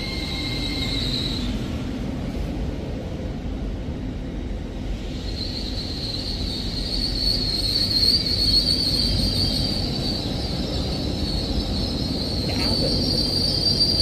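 LNER Azuma electric multiple unit rolling slowly past the platform with a low rumble, and a thin, high-pitched squeal from its running gear for the first second or so that returns about five seconds in and carries on.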